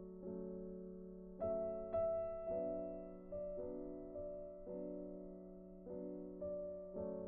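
Soft background piano music, slow sustained chords that change about every second, with a brighter higher note struck twice near the middle.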